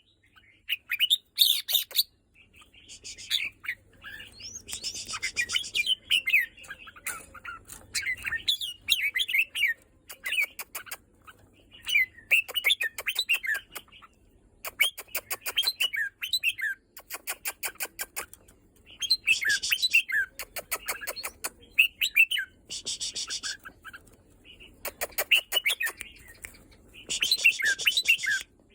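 Caged red-whiskered bulbul singing: short warbled, whistled phrases repeated every couple of seconds with brief pauses, some with fast ticking runs.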